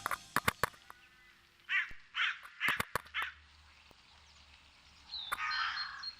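Hooded crow cawing: three short harsh caws about half a second apart around two seconds in, and a longer call near the end. A few sharp clicks come in the first second.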